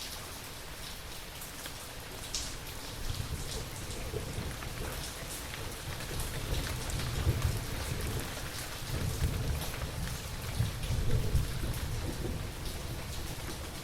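Steady rain with scattered drop ticks, and a low rolling thunder rumble that starts about three seconds in and builds through the middle.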